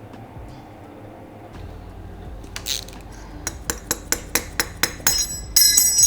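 Metal parts and tools clinking: a run of quick metallic taps, about five a second, ending in a louder ringing clink near the end.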